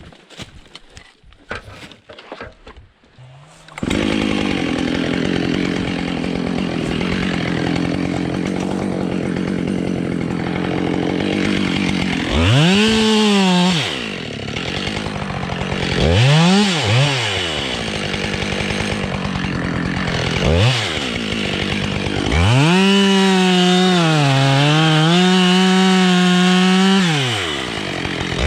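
Husqvarna 572 XPG chainsaw comes in idling about four seconds in, after a few faint knocks. It is then revved sharply several times, and held at high revs for about five seconds near the end, its pitch dipping as it takes load.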